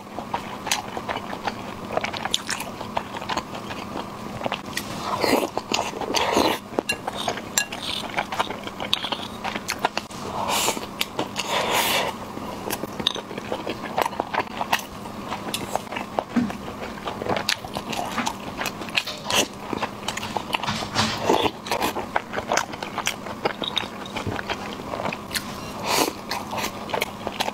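A person chewing and biting mouthfuls of rice and saucy braised food close to the microphone: many sharp, wet mouth clicks and smacks, over a steady hum.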